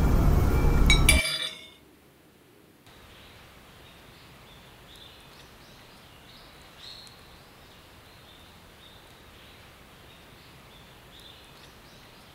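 A loud sound with a clink stops suddenly a little over a second in. After a short quiet gap, faint bird chirps run over a soft outdoor hiss.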